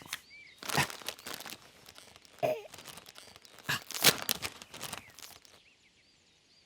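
A handful of short crinkling, rustling noises, like something being handled or crumpled, spread over the first five seconds.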